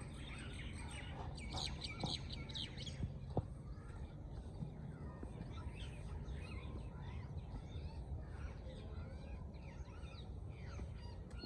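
Many small birds chirping and twittering, a dense run of rapid chirps in the first few seconds, then scattered calls. A couple of brief knocks sound during the chirping.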